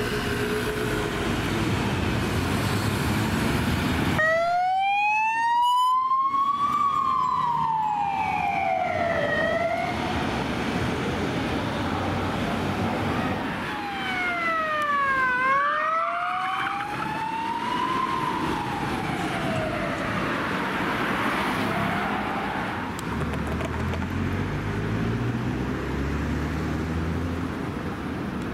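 Emergency vehicle siren sounding a slow wail, the tone rising and falling about every five seconds, over city traffic. It starts suddenly a few seconds in and fades out in the last third, where a vehicle engine is heard pulling away.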